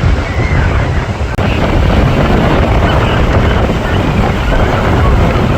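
Strong wind buffeting the microphone over a steady rush of noise, with a brief dropout about a second and a half in.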